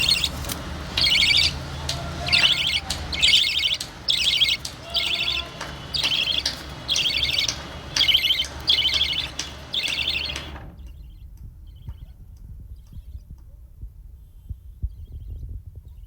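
Budgerigar chirping: a regular series of about a dozen short, scratchy high calls, roughly one a second, that stops about ten seconds in, leaving only faint low thumps.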